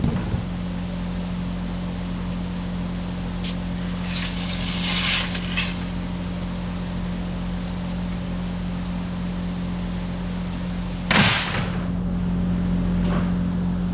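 Kubota excavator's diesel engine running steadily at a constant speed, with two short rushes of hiss about four seconds in and again about eleven seconds in.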